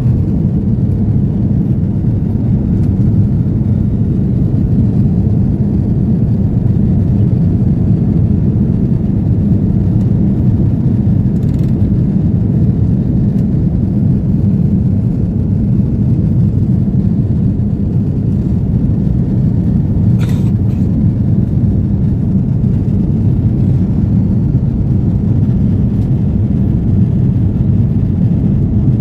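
Steady low rumble of an EgyptAir airliner's jet engines and rushing air, heard inside the passenger cabin during takeoff and climb. A faint brief click comes about twenty seconds in.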